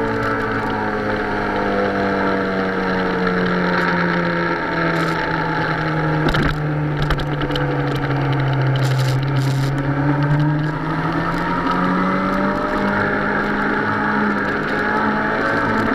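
Suzuki sport motorcycle's engine running under way, its pitch easing down through the middle of the stretch and rising again near the end, over a rush of wind noise.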